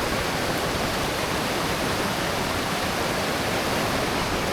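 Waterfall and cascading stream water rushing, a steady, even roar of falling water.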